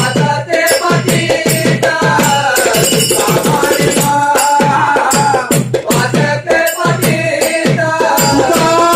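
Marathi devotional bhajan: voices singing a melody over a steady beat of hand percussion and rattling strikes, about two a second, with a long held note near the end.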